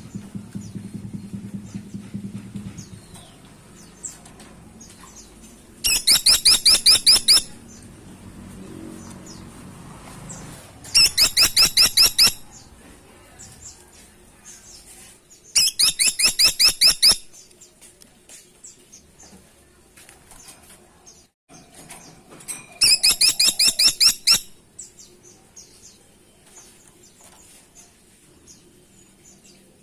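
Caladi tikotok woodpecker (grey-and-buff woodpecker) giving a rapid series of sharp, high call notes, about six a second. The series comes four times, each burst lasting about a second and a half, with several seconds between bursts.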